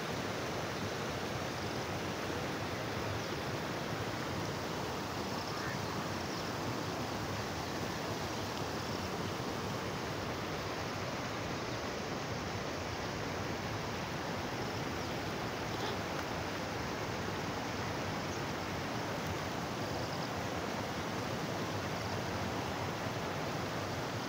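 Rainwater rushing and splashing steadily over a drop like a small waterfall.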